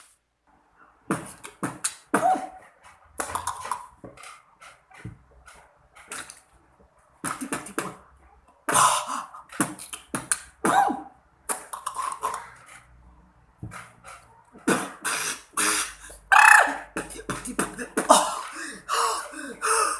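Beatboxing: a run of short percussive mouth sounds and breathy hisses in an uneven rhythm, sparse at first and denser and louder from about halfway in.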